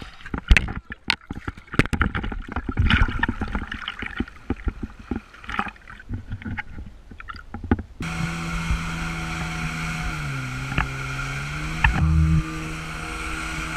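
Water splashing and sloshing close to the microphone. Then a jet ski engine runs steadily, its pitch dipping for about a second and rising back.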